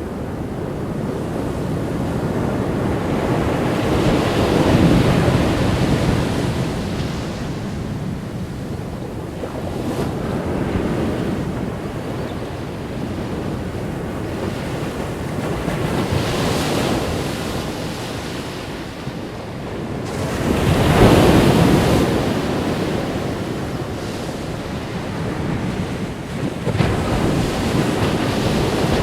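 Ocean surf breaking on a beach, the waves swelling and easing in slow surges about every five seconds, the biggest about five seconds in and again past the middle. Wind buffets the microphone.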